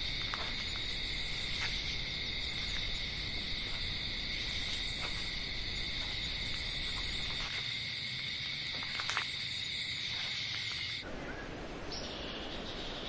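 A steady, shrill insect chorus: one unbroken high tone with a higher overtone above it, over a soft hiss. It cuts off abruptly about eleven seconds in.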